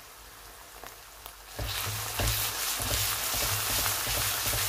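Masala paste frying in oil in a wok, sizzling softly with scattered small pops. About one and a half seconds in, a spatula starts stirring it, and the sizzle turns suddenly much louder, with the spatula knocking and scraping against the pan.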